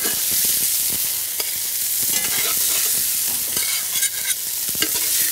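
Ground sirloin burger patties sizzling in a nonstick skillet, with a spatula scraping and clicking against the pan as they are lifted out.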